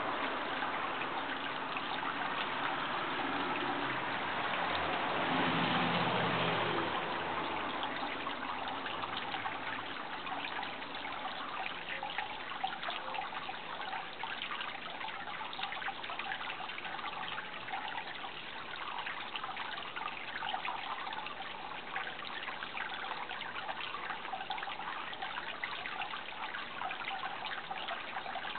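Water trickling steadily with a fine, crackly splashing, like a small stream. A low rumble dies away over the first several seconds.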